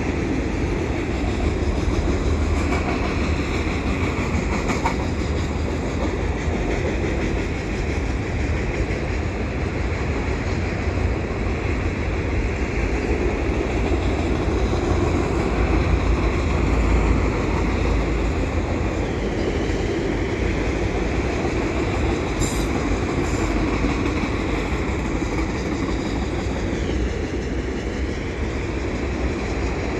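Freight train of multilevel auto rack cars rolling steadily past, the steel wheels running continuously on the rails.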